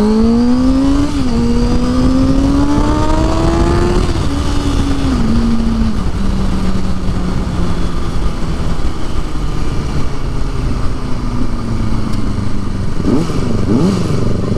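Motorcycle engine pulling hard, with its pitch rising through an upshift about a second in and climbing again until about four seconds. It then eases off in a couple of steps and settles to a steady cruise, with constant wind noise underneath.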